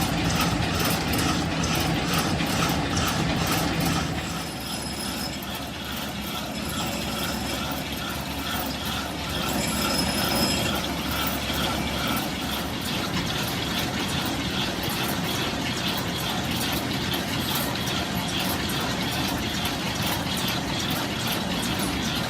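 Workshop machine tool running during crankshaft machining, with a steady mechanical drone and an even rhythmic ticking of a few beats a second.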